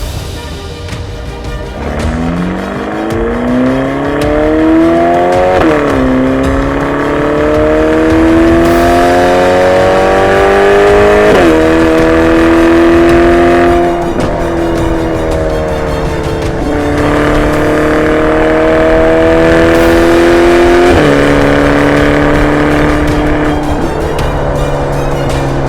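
Ferrari Portofino's twin-turbo V8 accelerating hard through the gears: the engine note climbs steadily, then drops sharply at each upshift, about four times.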